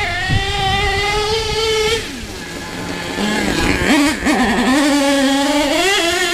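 HPI Savage SS nitro RC truck's small glow-fuel engine running at high, steady revs, then easing off about two seconds in, dropping low with a quick blip of throttle, and climbing back to high revs near the end.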